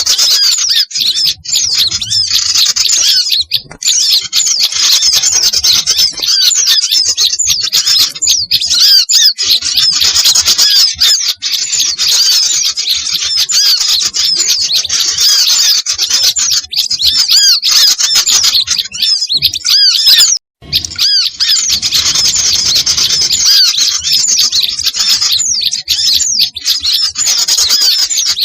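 Bird-lure recording of many small songbirds chirping and squawking over one another in a dense, noisy chorus, including bulbul-type calls. It breaks off for an instant about twenty seconds in.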